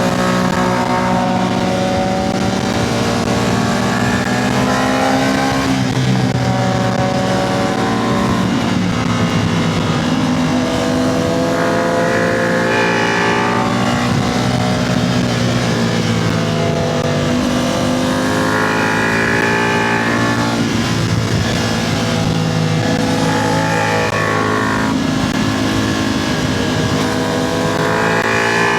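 Motorcycle engine under hard riding, revving up and easing off again and again, its pitch climbing and dropping every few seconds as it accelerates out of corners and rolls off into them.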